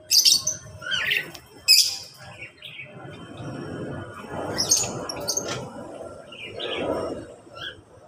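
Mixed calls of caged birds in an aviary: a few loud, sharp high chirps in the first two seconds, then quieter, rougher, lower chatter through the rest.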